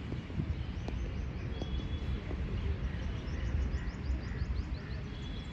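A bird calling with a rapid series of short, high, falling chirps, about four a second, over a steady low outdoor rumble.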